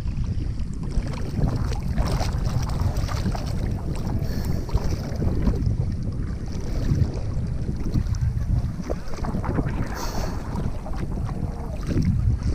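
Wind buffeting the microphone in a steady low rumble, with sea water sloshing and splashing around a person wading in shallow water.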